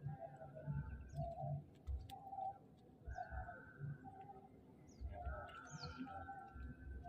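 Birds calling: a short low note repeated roughly once or twice a second, with longer, higher held calls over it. Irregular low thumps sound under the calls.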